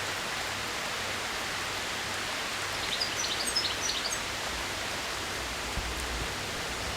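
Steady rain falling, an even hiss, with a few faint high chirps near the middle.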